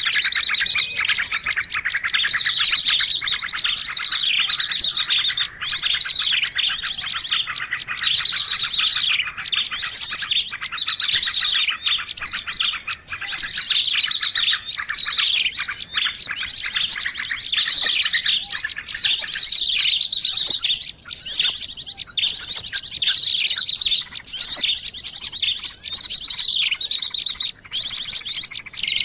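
Dense chorus of many small songbirds chirping and trilling nonstop over one another, with fewer of the lower chirps from about two-thirds of the way through. It is a bird-lure recording (suara pikat) used to draw small birds in.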